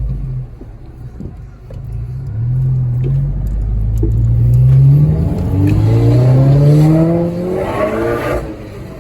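Big-turbo VW Golf GTI Mk4's engine accelerating hard, heard from inside the car. The revs climb in pulls, dropping back at gear changes about three and five seconds in, then climb higher and ease off near the end.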